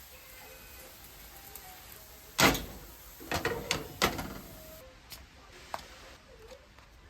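Household knocking: one loud bang about two and a half seconds in, then a quick run of knocks and clatter about a second later, and a few small clicks after.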